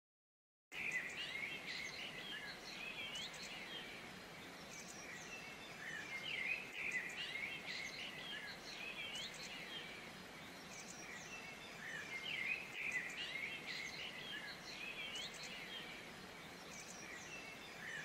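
Small birds chirping and calling in quick, twittering clusters that come back every few seconds, over a faint steady hiss. The sound starts abruptly just under a second in.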